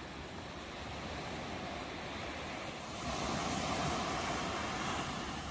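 Ocean surf: a steady wash of waves, with a wave breaking louder about three seconds in and easing off near the end.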